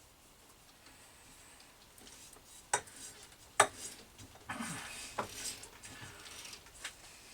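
Sharp metallic clinks of a tap and tap wrench being worked on a brass nut, two loud ones about three seconds in, then scraping and a few lighter clicks as a 1/4 Whitworth thread is cut by hand.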